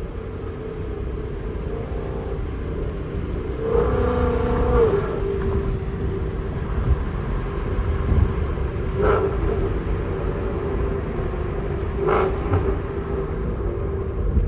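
Ford Mustang GT's 5.0 V8, running through long-tube headers and a Corsa Xtreme exhaust while driving. The engine pulls up in revs about four seconds in and settles again, then gives two short, sharp rev blips about nine and twelve seconds in on downshifts, which are so aggressive.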